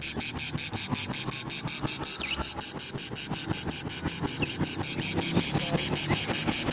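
An insect trilling in a steady, rapid pulse of about six or seven beats a second.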